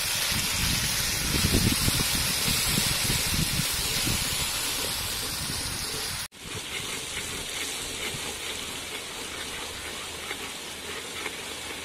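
Minced garlic sizzling and hissing in hot oil in a wok, with fish sauce and sugar just added, while a metal ladle stirs and scrapes through it. The hiss breaks off for an instant about six seconds in, then carries on.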